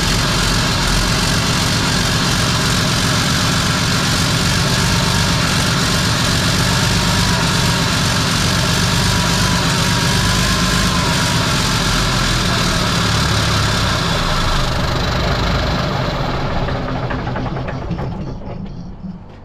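Old Mack R model truck's diesel engine running on sprayed ether, then dying away over the last few seconds. It will not keep running on its own fuel, which the owner puts down to plugged fuel filters or a stuck injection pump.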